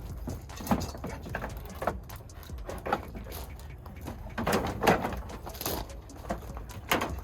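Scattered knocks and clunks from handling car parts, a few seconds apart and loudest about five seconds in, over a low rumble.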